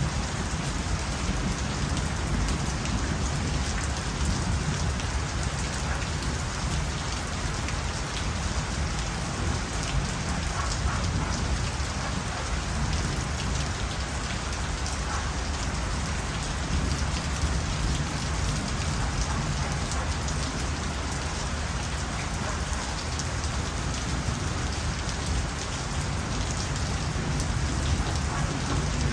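Steady rain falling on surfaces, an even hiss of drops with a deep low rumble underneath.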